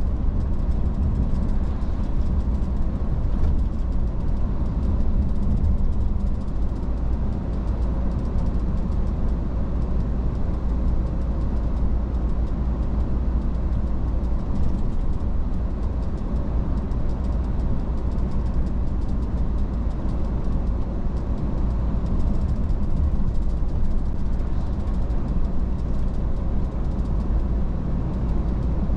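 Iveco S-Way truck driving at steady speed: a constant low diesel drone with road and tyre noise, no changes in pace.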